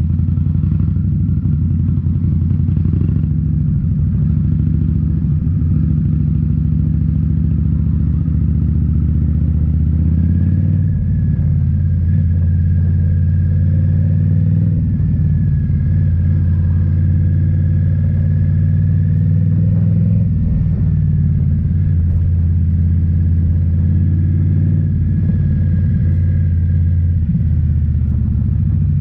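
2018 Indian Scout Bobber's liquid-cooled V-twin running under way through Rinehart slip-on mufflers, the exhaust note steady, with a shift in engine pitch about ten seconds in.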